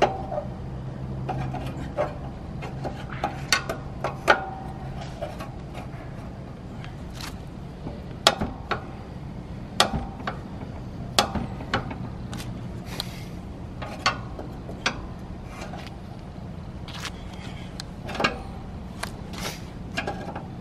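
Irregular metallic clicks and knocks, some ringing briefly, from work on a pop-up camper's lift crank and frame, over a low steady hum that fades after the first few seconds.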